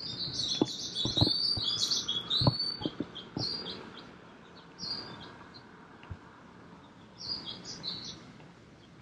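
Small birds chirping in quick, high twittering bursts, busiest in the first few seconds and then in shorter groups. A few sharp knocks or taps stand out in the first three seconds.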